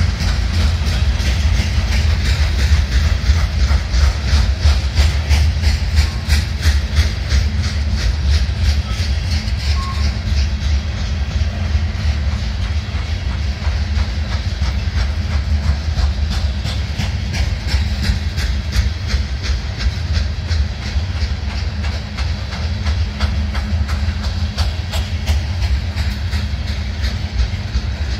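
Loaded coal hopper cars rolling past over a steady low rumble, their wheels banging in a fast, even rhythm: the pounding of wheels with severe flat spots. The banging is strongest in the first half and again near the end.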